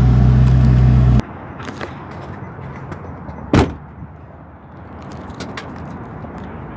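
Steady low drone of the Ferrari's engine heard inside the cabin, cut off abruptly about a second in. Then quieter outdoor background with a single loud, short thump about halfway through.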